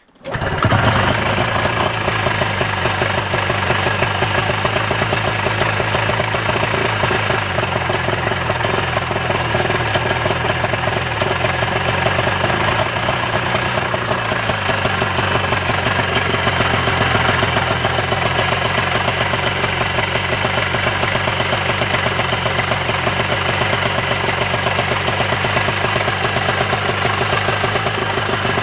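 1987 Ski-Doo Safari 377's two-stroke engine catches abruptly and then runs steadily at idle. It is drawing fuel through its line again after failing to prime.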